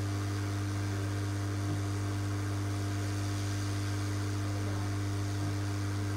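Steady low electrical hum, a constant deep tone with a fainter higher overtone and a light hiss underneath, unchanging throughout.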